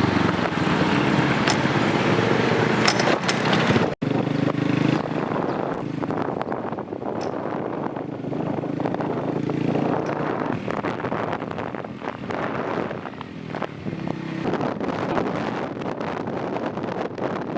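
Motorcycle engine running while riding, with wind buffeting the microphone. The sound drops out for an instant about four seconds in.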